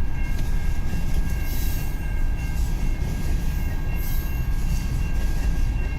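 Long, heavy freight train of loaded railcars rolling past slowly, a steady low rumble of wheels on rail as it begins to speed up, with faint steady high-pitched tones above it.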